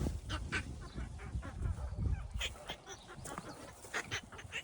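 Newborn piglets giving short, high squeaks, scattered through the moment.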